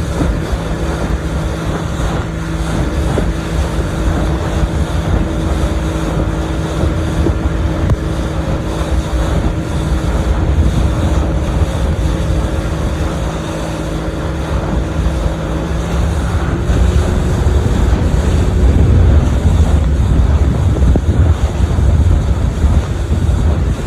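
Boat motor running steadily under way, with wind buffeting the microphone. About two-thirds of the way through, the engine note shifts and the wind rumble grows louder.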